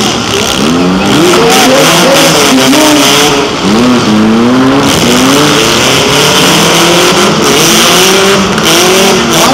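Several four-cylinder demolition derby cars running hard together, their engine notes overlapping and rising and falling as they rev and accelerate. Very loud throughout.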